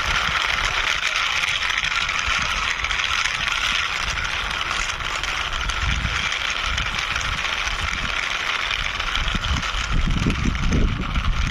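Plastic toy truck pushed by hand over the ground, its wheels making an irregular low rumble that grows stronger near the end, over a steady hiss.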